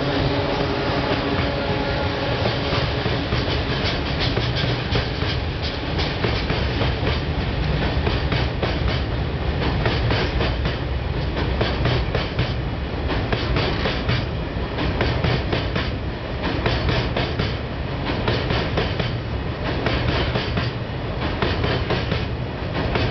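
Freight train of tank wagons rolling past over a steel bridge: a steady heavy rumble with a fast, continuous clickety-clack of wheels over rail joints.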